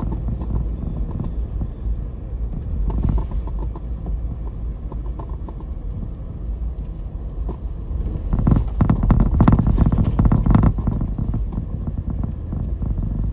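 Road noise inside a moving car: a steady low rumble of tyres on a rough lane, with creaks and rattles as the car jolts over bumps. It is loudest from about eight to eleven seconds in.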